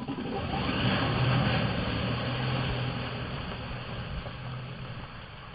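Arrma Mojave 4S RC truck's electric drivetrain running, a steady low drone under a hiss, gradually fading.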